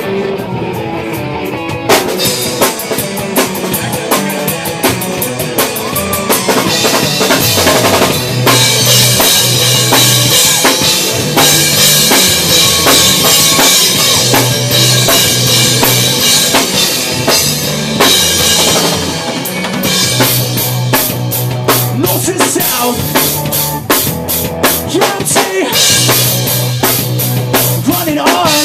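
Rock band playing live with a loud drum kit, no singing. The music starts thinner and quieter, and the drums come in fully about two seconds in.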